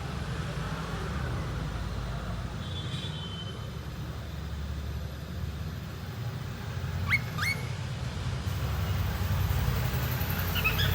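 Cockatiel calling: two short, sharp rising chirps about seven seconds in, with a faint whistle earlier and a few softer chirps near the end, over a steady low rumble like road traffic.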